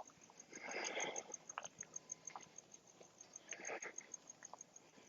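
Cricket chirping steadily in fast, even, high-pitched pulses, about five a second, with two brief scuffing noises about a second in and near four seconds.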